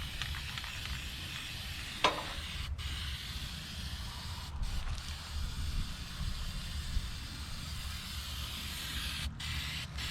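Paint spray gun hissing as black paint is sprayed in long passes, cutting out briefly a few times between passes, over a steady low rumble.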